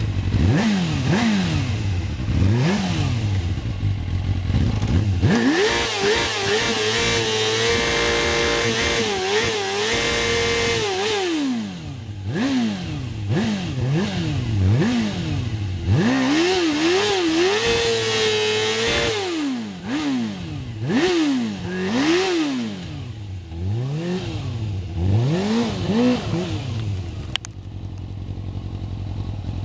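Suzuki GSX-R sportbike's inline-four engine revved hard in repeated quick blips. Twice it is held at very high revs for several seconds while the rear tyre spins, then it drops back towards idle near the end.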